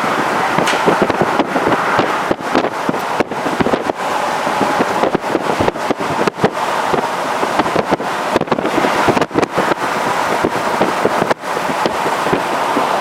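Strong wind buffeting the microphone in a moving car, probably through an open window, over steady road noise, with frequent sharp crackles and brief dropouts as the gusts hit.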